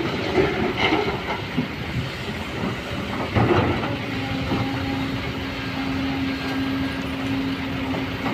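A large vehicle running with a noisy rumble and a few louder surges; about halfway through, a steady hum sets in and holds.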